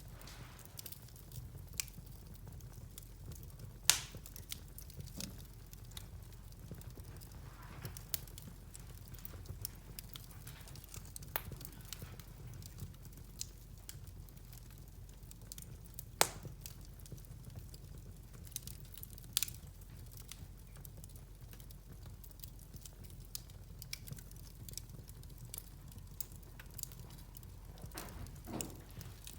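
Wood fire in a fireplace crackling, with scattered sharp pops over a steady low rumble; three pops stand out louder than the rest.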